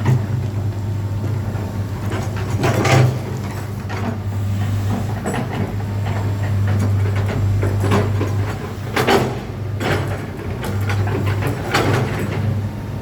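Old Komatsu PC200-6 excavator's diesel engine running with a steady low hum, with clunks and knocks from the machine every second or few.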